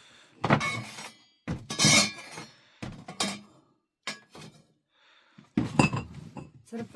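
A handful of irregular knocks and clatters with brief clinks, the loudest about two seconds in.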